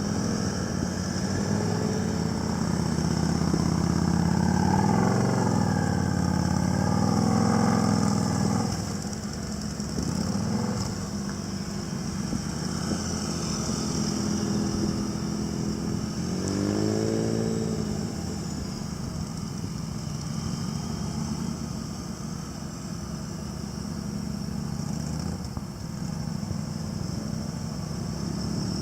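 Motorcycle engines running at low speed, the revs rising and falling through the throttle, most clearly about four to eight seconds in and again about sixteen seconds in.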